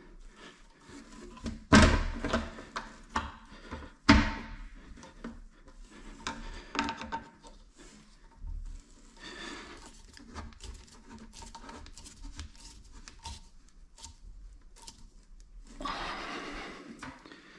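A toilet seat being handled and adjusted on its hinge fittings: two sharp knocks about two and four seconds in, then scattered clicks and rubbing.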